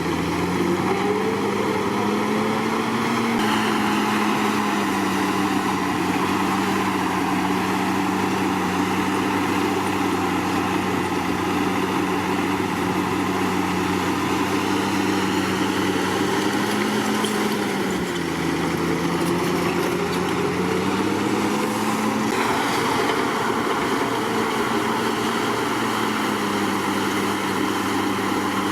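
Komatsu D61PX bulldozer's diesel engine running steadily under work. Its pitch drops about 18 s in and climbs back over the next few seconds.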